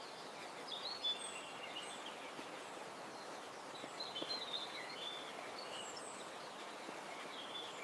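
Small birds chirping in short, high calls over a faint steady outdoor hiss. The calls come in clusters about a second in and again around four to five seconds.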